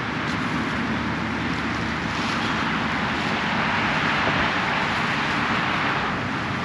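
Road traffic going past: a steady hiss of tyre noise over a low rumble that swells toward the middle and eases off again.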